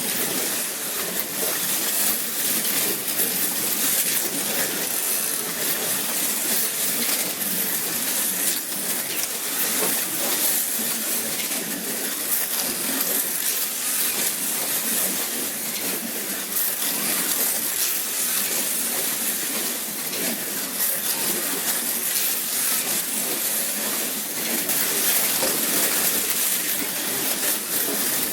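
Plastic-chassis slot cars running laps on a wooden routed track: a steady high hiss of small electric motors and pickup braids on the rails, with many small clicks and rattles.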